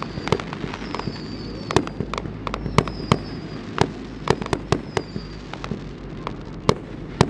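Fireworks display: an irregular string of sharp bangs and cracks going off in quick succession.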